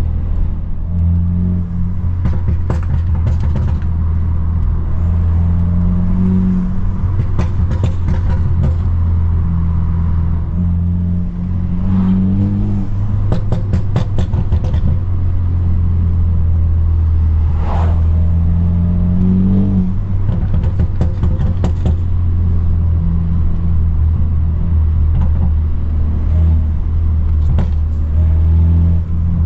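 Straight-piped, tuned BMW F30 328i's turbocharged four-cylinder droning steadily under way, the revs climbing briefly three times, with short sharp cracks now and then.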